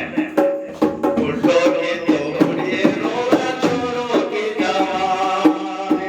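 Indian rasiya folk music: a drum beats a quick, even rhythm under a steady melody.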